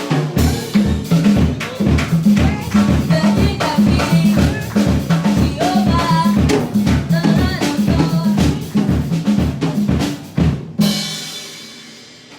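Live band music led by a drum kit: steady kick and snare strokes over a bass line, ending on a final hit about eleven seconds in that rings out and fades.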